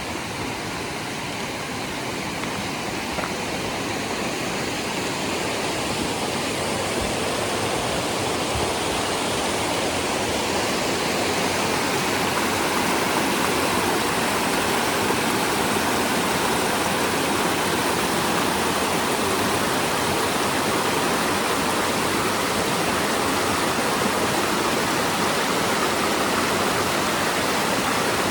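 Rushing water: a steady, dense rush that grows louder over the first dozen seconds or so, then holds steady.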